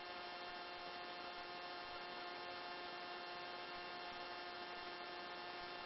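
Faint steady electrical hum with a few thin steady tones, with none of the helicopter's rotor or engine noise: the sound of an aircraft headset intercom line while no one is talking.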